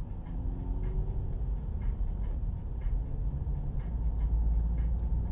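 Car engine and road rumble heard from inside a car, with a light regular ticking at about three to four a second.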